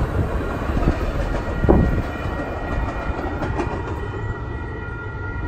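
A train rolling past: a low rumble with wheels clacking over rail joints, slowly dying away.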